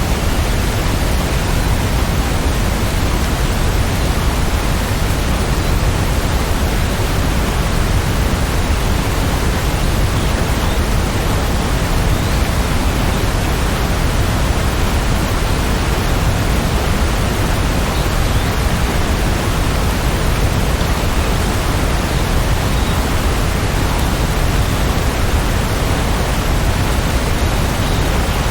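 Steady heavy rain: a dense, even hiss, deepest at the low end, with no single drops standing out.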